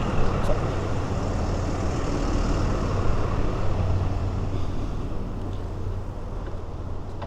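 Road traffic noise: a steady motor-vehicle engine hum with road rumble that slowly fades toward the end.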